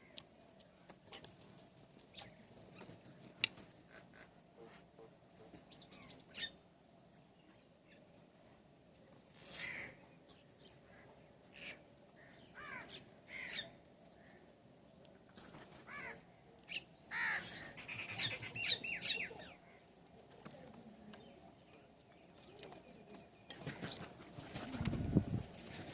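Birds chirping and calling: short scattered calls and clicks, with a busier flurry of calls about two-thirds of the way through and a louder, lower call near the end.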